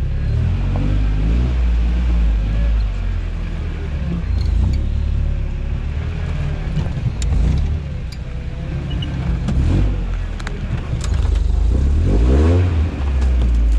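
Toyota truck engine running and revving under load while crawling a rough trail, with the pitch rising and falling and scattered sharp knocks and clunks.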